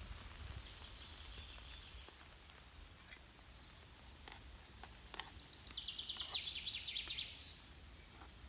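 Quiet forest ambience with a songbird singing: a faint high whistle at first, then a louder, fast trill of rapidly repeated high notes about six to seven seconds in. A few faint clicks.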